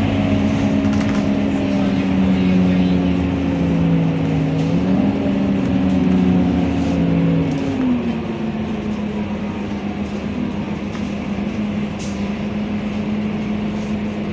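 Scania K230UB single-deck bus's five-cylinder diesel engine running under way, a steady drone whose pitch dips and climbs again about five seconds in and falls back about eight seconds in as the revs change.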